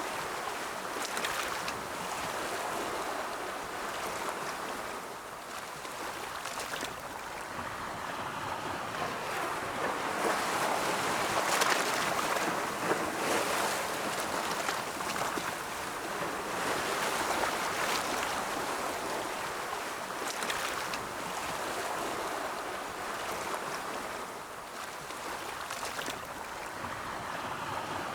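Ocean waves rolling and breaking in a continuous wash, swelling to a peak about halfway through and easing off again.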